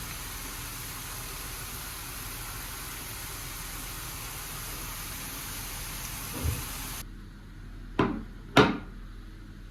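A steady hiss with one soft low thump for about seven seconds, then it cuts off suddenly to a quieter room, where two sharp knocks sound about half a second apart, the second louder, as of a cupboard door being shut.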